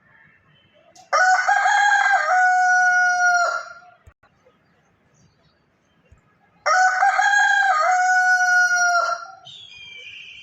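Rooster crowing twice, each crow a long, drawn-out call of about two and a half seconds, with a few seconds of quiet between them. A fainter, higher-pitched call starts near the end.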